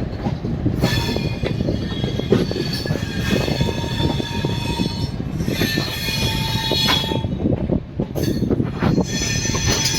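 Passenger train running on the rails, with high-pitched, wavering wheel squeal over the steady noise of the wheels.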